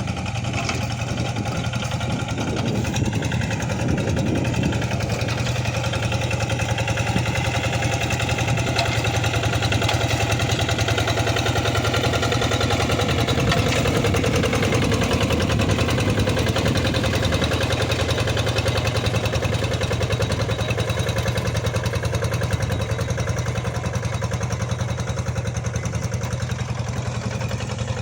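Tractor engine running steadily while pulling a plough through a wet rice paddy.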